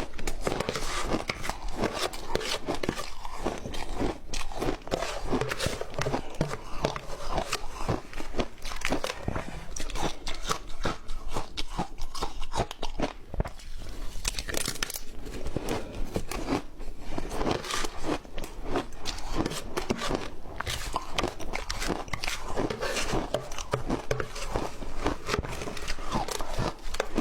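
Close-miked biting and chewing of ice with matcha: dense, irregular crunching and cracking, bite after bite without a break.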